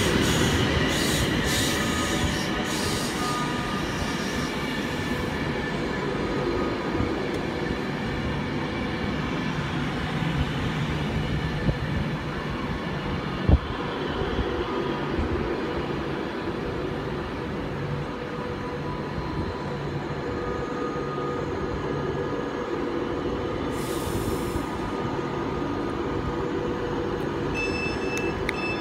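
Electric trains at a station platform. Over the first few seconds a train passing through rattles and fades. After that comes a steady hum of a Class 390 Pendolino standing at the platform, with one sharp click about halfway.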